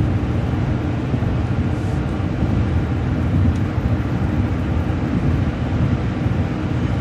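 MCO ViewMaster coach bus cruising at highway speed: a steady low engine and road rumble with a faint hum of tyre noise, unchanging throughout.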